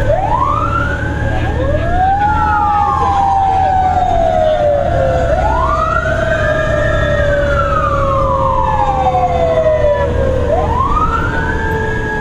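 Fire engine siren wailing: repeated sweeps that rise quickly, hold and then fall slowly, overlapping one another, with a lower tone slowly falling underneath. A steady low engine rumble runs beneath.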